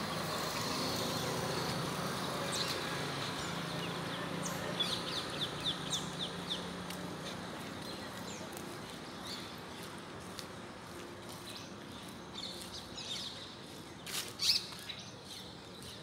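Birds chirping and calling. A quick run of about eight short chirps comes around five seconds in, and a few sharper, louder calls come near the end.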